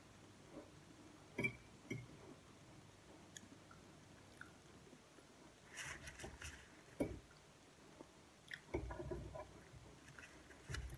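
Quiet chewing of boiled corn kernels, with short clicks and taps of a metal fork against a plate at irregular moments.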